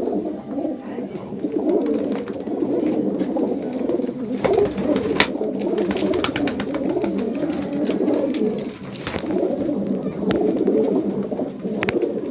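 Many domestic pigeons cooing at once, a steady overlapping chorus of low coos, with a few brief sharp clicks midway and near the end.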